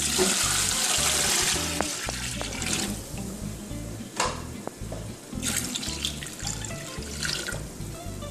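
Water poured from a plastic jug into a steel cooking pot of chicken, a steady rush that stops about three seconds in, followed by quieter splashes.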